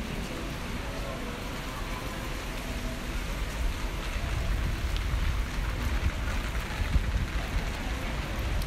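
Steady rain falling, an even hiss, with a low rumble that grows stronger about three seconds in.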